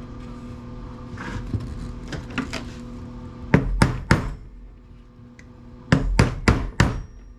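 Hammer striking a chisel to drive out a press-fit part inside a wood planer: a quick group of three blows about three and a half seconds in, then four more about two seconds later.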